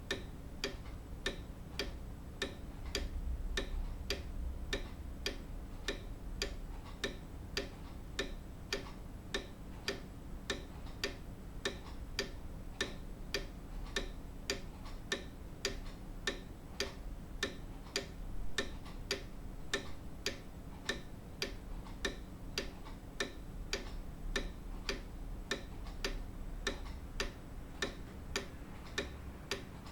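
Grandfather clock ticking steadily, about two even ticks a second, over a faint low background rumble.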